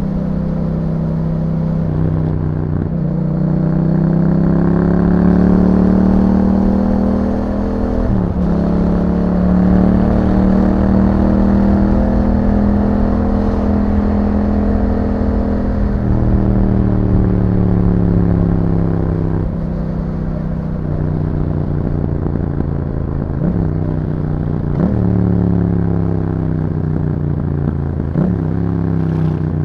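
2021 Yamaha MT-07's parallel-twin engine through an Akrapovic exhaust, under way. The pitch climbs and falls with the revs, broken by short dips at several gear changes.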